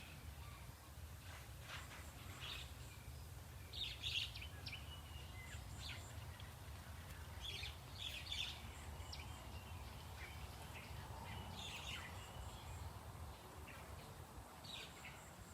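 Short bird chirps, scattered every second or two, over a steady low background rumble.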